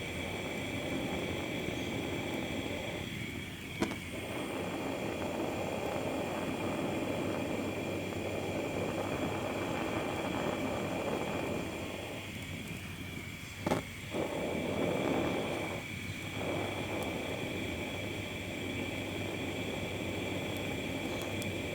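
Handheld power tool running at steady speed on rusty metal: a constant high whine under rough working noise that eases off briefly three times. A sharp click about four seconds in and a double knock about two-thirds of the way through.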